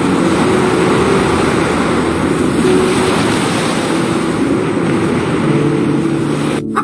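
Steady rush of shallow sea water washing over a sandy bottom, with faint soft music tones underneath; it cuts off just before the end.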